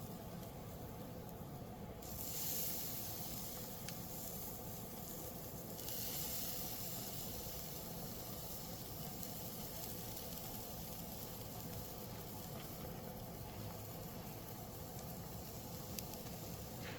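Chicken breasts sizzling on a charcoal grill. The sizzle sets in sharply about two seconds in, is loudest for the next few seconds, then goes on more softly and steadily.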